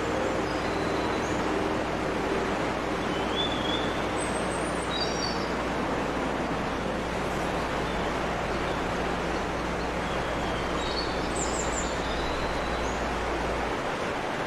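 Steady rushing of a waterfall, with birds giving short chirps here and there. A low hum underneath cuts out near the end.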